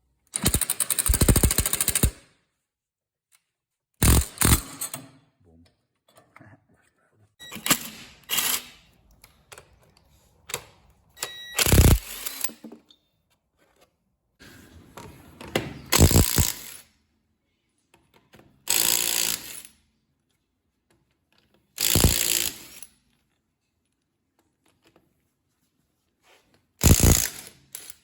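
Ryobi ONE+ 18V R18IW3 cordless impact wrench hammering on wheel lug bolts in about eight short bursts of half a second to two seconds each, with pauses between them.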